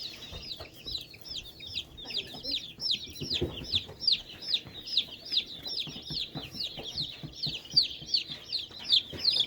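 A brood of Cornish Cross broiler chicks peeping without pause, a steady run of high, downward-falling peeps, several a second.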